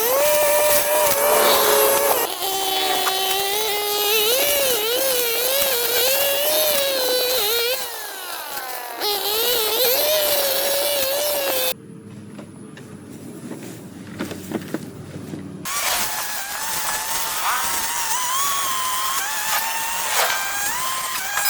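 Motor-driven garden power tools running, their pitch wavering up and down as they are revved and loaded. The sound comes as several short clips cut together, with a quieter, duller stretch about midway.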